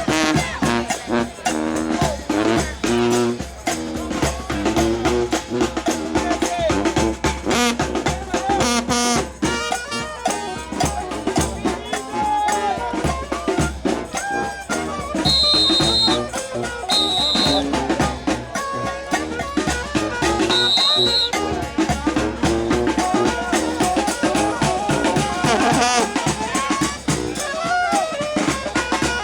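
New Orleans brass band playing second-line parade music: trumpets and trombones over drums, with crowd voices mixed in. Short high, shrill tones cut in a few times in the second half.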